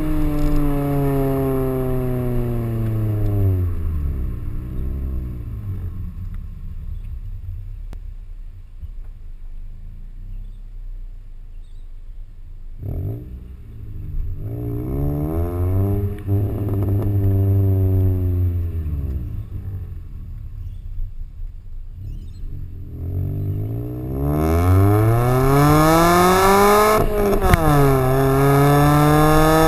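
Car engine and exhaust revving and accelerating. The pitch falls off at the start, rises and falls once midway, then climbs hard about 24 seconds in, dips sharply at a gear change a few seconds later, and climbs again.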